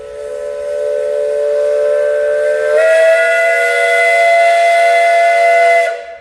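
Steam whistle on a 1917 Frick Eclipse 16-50 single-cylinder steam traction engine blowing one long blast of several tones at once. It swells louder and steps up a little in pitch about three seconds in, then cuts off near the end.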